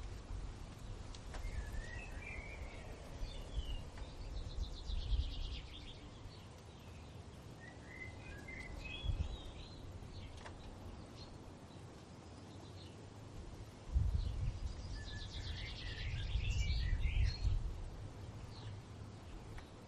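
Songbirds singing outdoors in short bursts of twittering notes and fast buzzy trills, with a pause of several seconds in the middle. Underneath runs a low rumble of wind that swells near the start and again late on.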